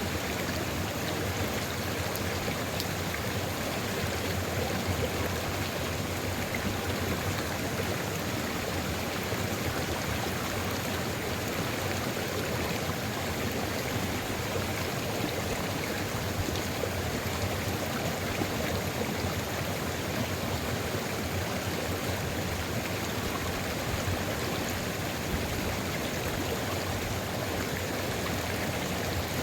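Sulfur river flowing, a steady, even rush of water that does not change.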